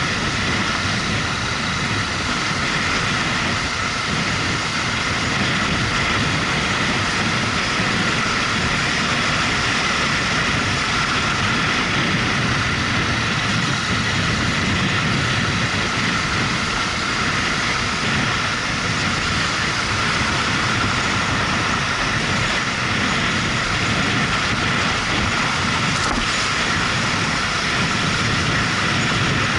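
Motorcycle running at a steady speed on the road, its engine under a constant wash of wind and road noise on the microphone.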